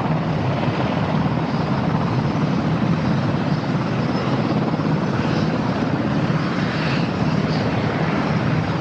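Helicopter running steadily, its rotor giving a fast, even chop.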